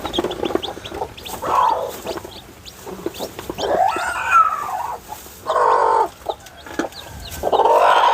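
Mother hen calling loudly four times, each call about a second long, with her newly hatched chicks' short high peeps in between.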